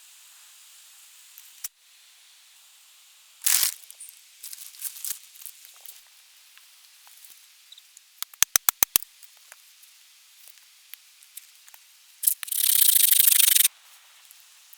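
Hands working camp gear: rustling and small knocks, a quick run of about six sharp clicks a little past halfway, then a loud tearing sound like a zip or a packet being torn, lasting about a second near the end.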